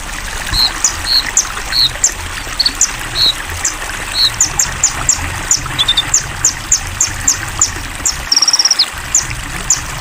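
Songbirds chirping over steady flowing water: short high chirps come about two or three a second, with a brief rapid trill about eight seconds in.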